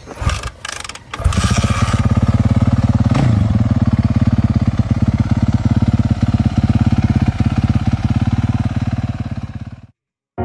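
Motorcycle engine starting about a second in and then running at a steady, evenly pulsing idle, with one brief rev about three seconds in. The sound cuts off suddenly near the end.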